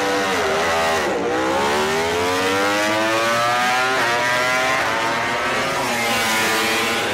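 MotoGP racing motorcycle engines at racing speed: the pitch drops about a second in as the bikes brake for a corner, then rises steadily as they accelerate out, with a quick upshift about four seconds in and another drop and climb near six seconds.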